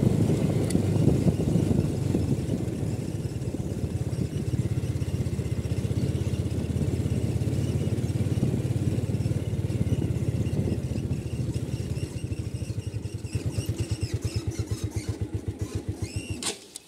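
Motorcycle engine idling, its beats slowing and spreading out in the last few seconds until it is switched off and stops near the end.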